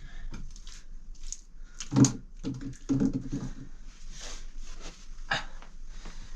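Scattered knocks and clicks of handling or movement, with two louder, short, low pitched sounds about two and three seconds in.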